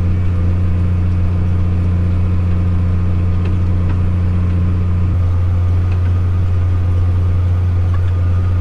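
Case IH MX240 tractor's diesel engine running steadily while pulling a disk, a constant low drone.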